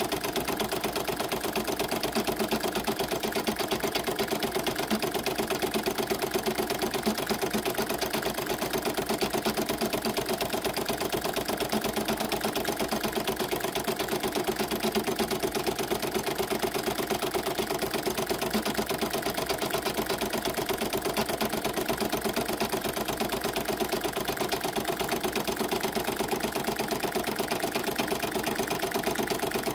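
Embroidery machine stitching steadily, a fast, even needle rhythm.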